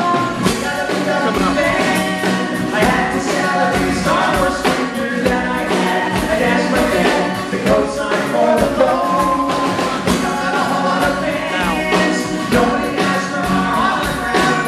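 Live music: several voices singing together over instrumental accompaniment.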